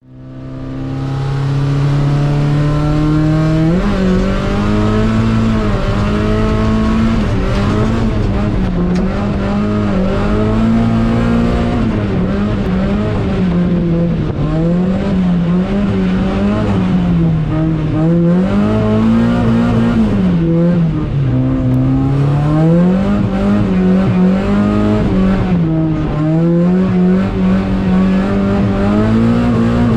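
Mazda MX-5 Miata's 1.6-litre four-cylinder engine revving up and down over and over while the car drifts, its note climbing and dropping every second or two. It fades in over the first couple of seconds.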